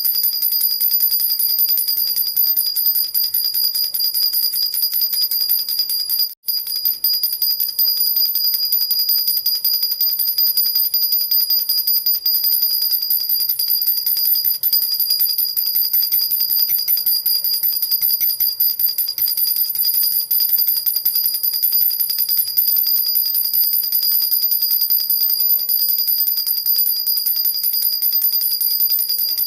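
Metal baby rattle (jhunjhuna) shaken continuously: a steady, rapid, high-pitched jingling of its little bells, with a brief break about six seconds in.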